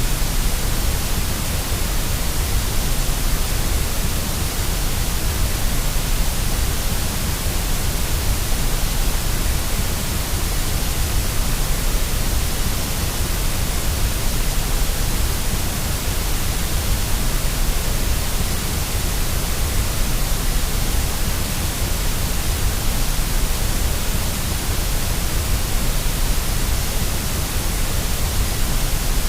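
Steady white noise: an even, unchanging hiss with a strong low rumble underneath.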